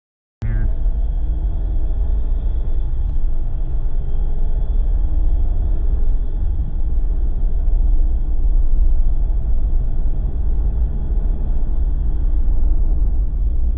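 Jeep Wrangler driving at road speed: a steady low rumble of tyres, road and engine, with a faint engine drone above it. It cuts in abruptly about half a second in.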